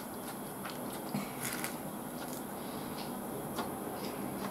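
Close-miked chewing of a mouthful of food: soft wet mouth clicks, with a brief louder crackle about one and a half seconds in.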